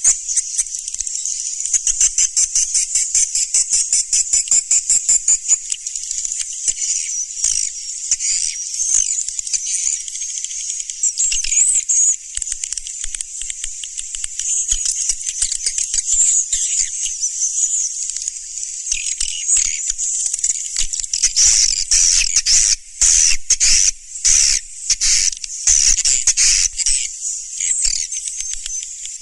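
Swiftlets twittering: a loud, dense, continuous run of rapid high-pitched chirps and clicking trills that turns choppier, with short breaks, in the last third. It is a swiftlet call recording of the kind played to draw the birds in.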